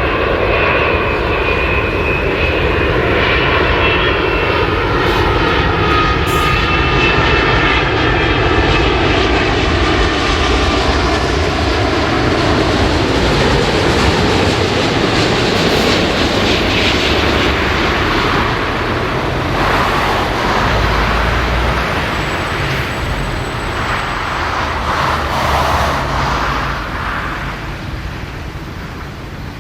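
Boeing 787-10 airliner passing low overhead on landing approach. Its engines' whining tones fall in pitch over the first dozen seconds above a broad jet roar, which fades toward the end.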